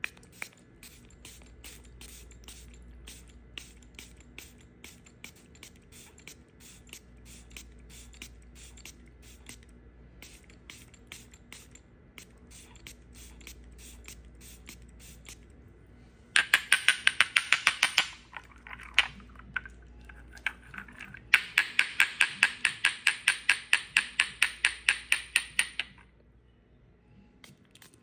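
Dry soap being cut with a blade, crunching in rapid, even clicks. Faint, regular clicking gives way to two loud stretches of crunching, one short and one lasting several seconds.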